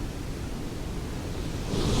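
Ocean surf: a low, steady rumble of wash, with a wave breaking near the end and its hiss swelling louder.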